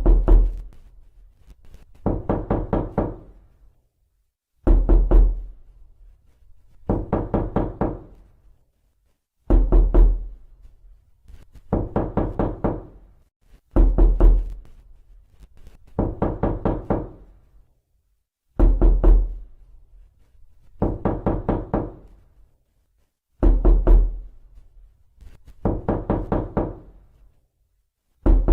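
Rapid knocking on a door, in bursts of several quick knocks lasting about a second, repeating every two seconds or so. Every other burst lands with a heavier, deeper thud, the ones between are lighter.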